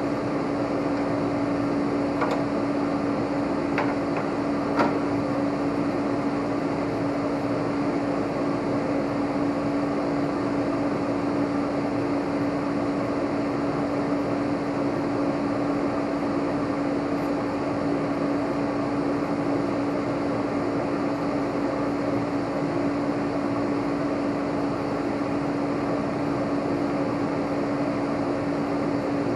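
Steady machine hum, one even tone over a noisy drone like a fan or blower motor, with three light clicks in the first five seconds.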